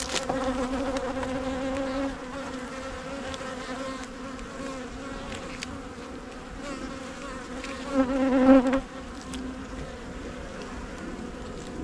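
Honey bees buzzing around an open hive: a steady hum, louder for the first two seconds and again briefly about eight seconds in.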